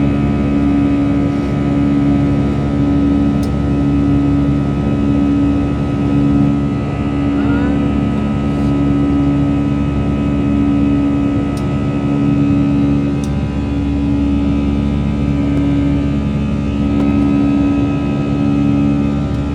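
Airliner engines heard from inside the cabin, a steady drone whose low hum swells and fades about every second and a half.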